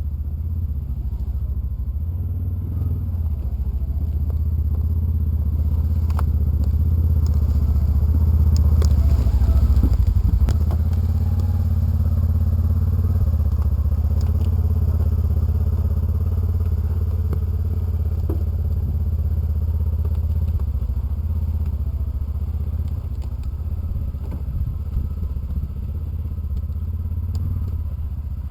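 Polaris Ranger side-by-side's engine running steadily while the machine drives across the food plot, getting somewhat louder about eight to ten seconds in.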